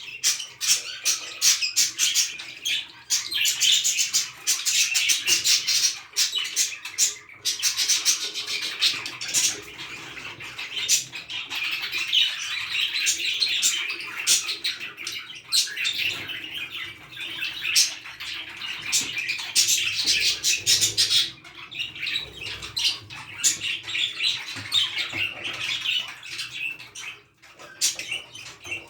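Budgerigars chattering and warbling without pause: a dense run of chirps and quick clicks from a pair during mating.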